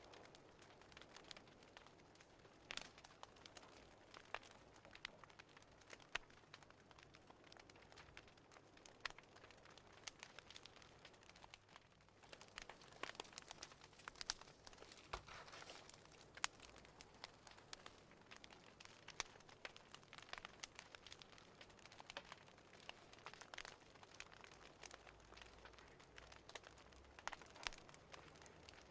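Wood fire crackling faintly in a fireplace: irregular sharp pops and snaps over a soft hiss.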